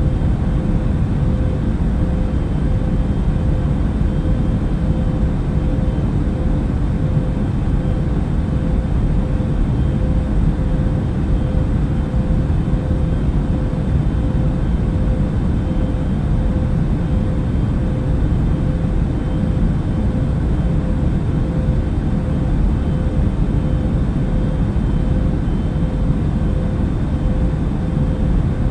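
Aircraft cabin noise in flight: steady engine and airflow noise, deep and unchanging, with a faint steady hum over it.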